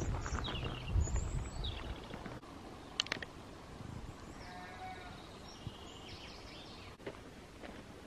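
Wild birds chirping and whistling outdoors, several short falling chirps and then a run of whistled notes. Wind rumbles on the microphone for about the first two seconds and then drops away. There is a single sharp click about three seconds in.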